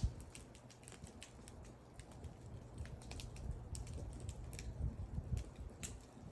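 Wood fire crackling: scattered sharp pops and snaps from the burning wood, irregular, several a second, over a low rumble of the flames.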